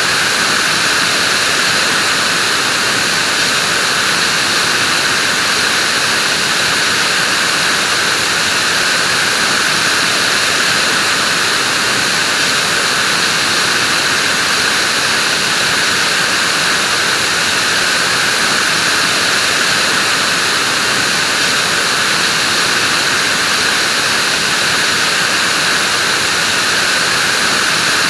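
Vacuum cleaner running continuously: a steady, unchanging rushing noise.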